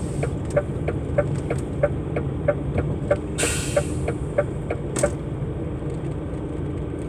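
Truck's turn-signal indicator ticking evenly, about three ticks a second, for a left turn, stopping about five seconds in, over the steady running of the truck's engine in the cab. A short burst of hiss comes about three and a half seconds in.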